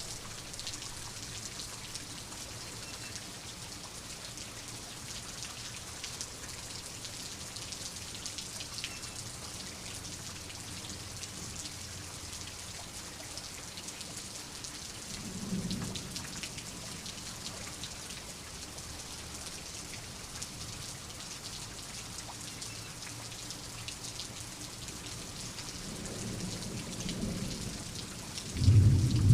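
Steady rain falling, with fine patter of drops. A short low rumble of thunder comes about halfway through, and near the end thunder builds and breaks into a loud roll.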